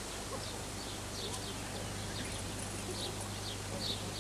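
Small birds chirping in the background: short, high, falling chirps repeated every second or so, over a steady low hum.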